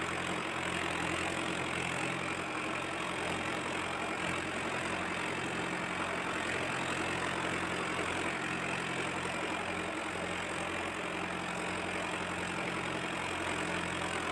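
Mahindra tractor's diesel engine running steadily without a break, at an even pitch and level.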